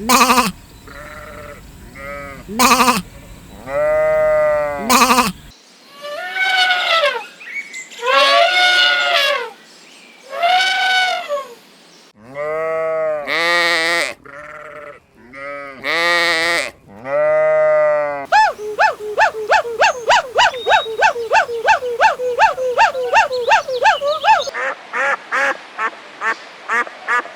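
Loud bleating from small livestock, one call about every second or two, each rising and falling in pitch, with a few sharp clicks between calls. From about two-thirds of the way in, there are some six seconds of quick stuttering calls, about four a second.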